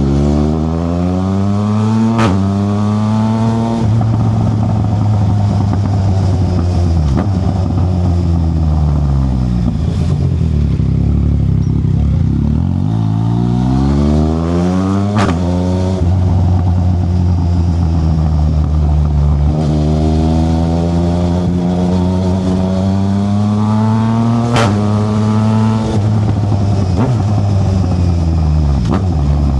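Yamaha Tracer 900 GT's three-cylinder engine through a Black Widow aftermarket exhaust, revs climbing under acceleration and dropping sharply at each of three upshifts, with revs falling off slowly between pulls as the throttle is eased.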